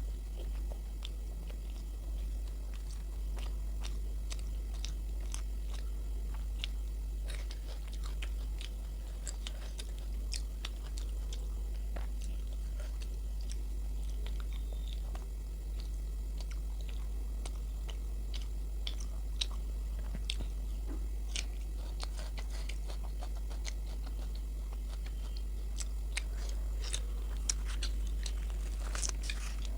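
Close-miked chewing and biting of luchi with potato curry: a steady run of small wet clicks and smacks from the mouth, busier near the end, over a steady low hum.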